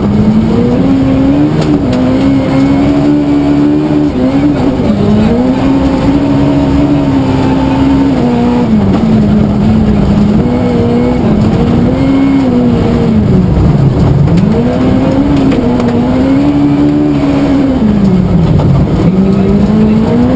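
Suzuki Swift S1400 rally car's engine running hard on a special stage. The revs hold high, fall away sharply and climb again again and again as it shifts and slows for corners, with two deeper drops in the second half.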